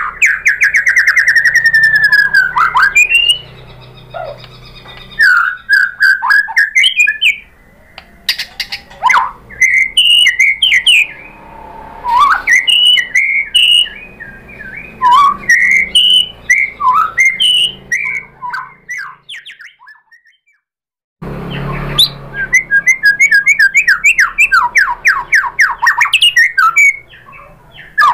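White-rumped shama (murai batu) singing a varied song: fast trills of rapid repeated notes, whistled phrases and harsh chatter, with a brief gap in the song about twenty seconds in before another run of fast trills.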